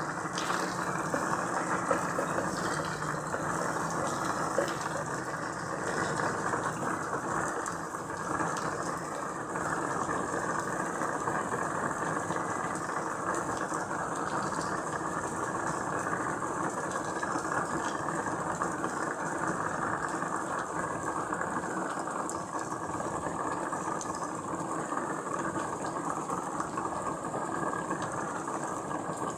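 Steady rain falling, an even unbroken hiss with a few faint ticks of drops.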